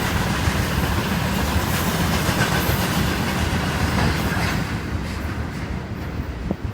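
Freight train of tank cars rolling past, wheels clattering over the rail joints with a steady rumble; about four and a half seconds in the noise drops away and fades as the last cars pass.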